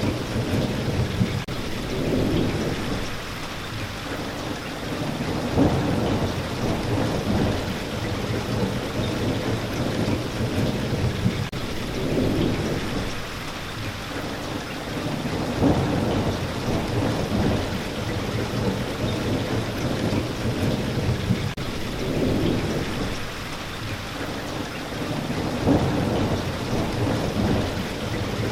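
Steady rain with low thunder-like rumbles swelling every three to four seconds.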